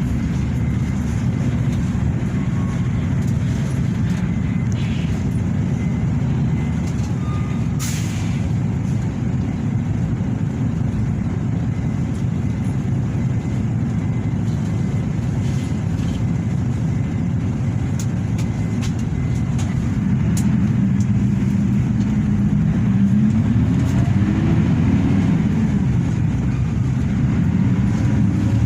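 Hino RK8 bus's diesel engine running under way, heard from inside the cabin as a steady low drone. About 20 s in it grows louder, and a little later the engine note rises and falls as the bus accelerates and changes gear. A single sharp click comes about 8 s in.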